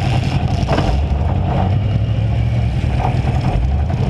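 Demolition derby car's V8 engine running with a loud, steady low rumble, heard through a hood-mounted camera.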